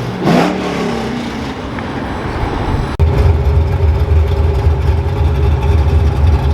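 1998 Mustang GT's 4.6-litre V8 with a stage 2 Comp cam. Early on the engine sound briefly rises and falls in pitch. About three seconds in it changes abruptly to a loud, steady idle with the choppy lope of the cam.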